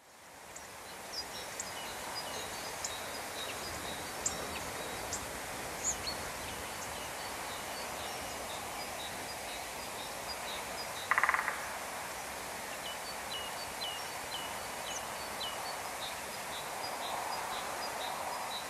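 Outdoor ambience fading in: a steady background hiss with birds chirping, many short high calls repeating throughout. About eleven seconds in comes a brief buzzy rattle, the loudest sound.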